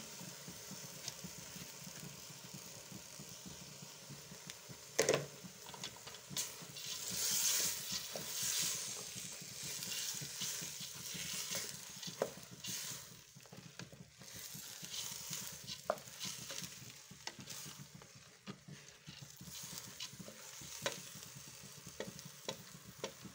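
Soaked lentils sizzling as they fry in oil with onion, tomato and spices in a steel pot while being stirred, with scattered knocks of the utensil against the pot, the loudest about five seconds in.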